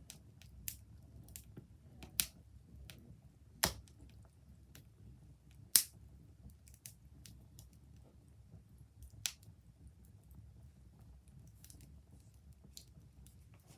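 Fire crackling: irregular sharp pops and snaps over a low steady rumble, the loudest pops a few seconds apart.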